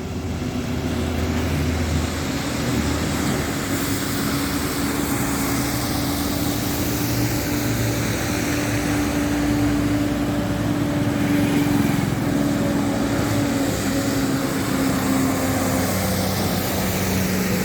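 Diesel engines of heavy Tata tipper trucks running, a steady drone whose pitch drifts slowly up and down as the revs change.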